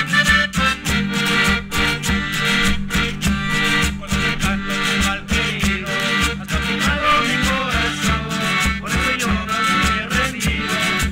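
Traditional Andean folk band playing an instrumental passage: plucked and strummed strings over a steady low beat of about two to three strokes a second.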